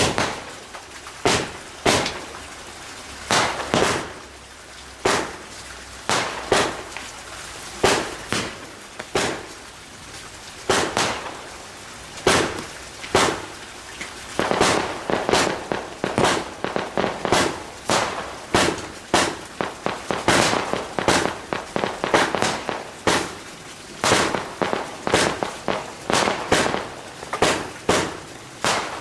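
Fireworks going off in a long run of sharp bangs, spaced out at first and then coming faster and overlapping from about halfway.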